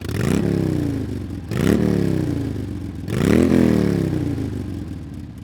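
Pit bike's small single-cylinder engine revving three times: each time the pitch shoots up, then sinks slowly as the throttle comes off, with the sound fading near the end.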